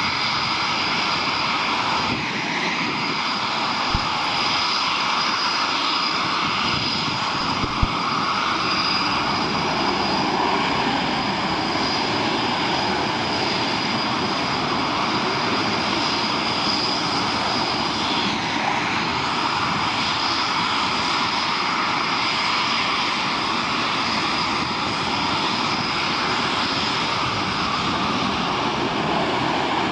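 Jet engines of Eurofighter Typhoon fighters running at high power during a mass take-off: a continuous loud rush with a steady high whine over it, which sags and recovers in pitch twice as aircraft pass. Two brief clicks sound about four and eight seconds in.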